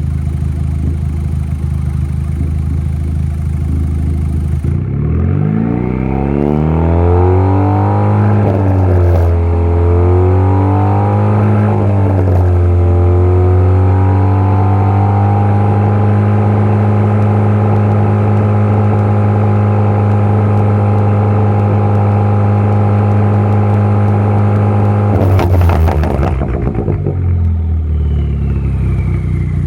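Car engine and aftermarket exhaust idling, then revved in several quick blips and held at a steady raised rpm for about ten seconds. As the revs drop back to idle near the end there is a short burst of pops and crackles, from a tune set up for exhaust pops and crackles.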